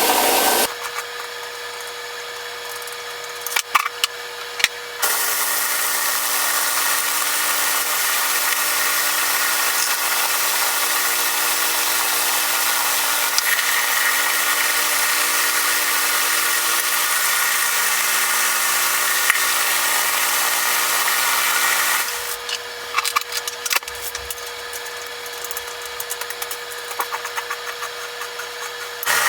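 A power tool's motor running steadily for about seventeen seconds, with a hissing, grinding noise over a low hum. Before and after it comes a quieter steady hum with scattered clicks and taps.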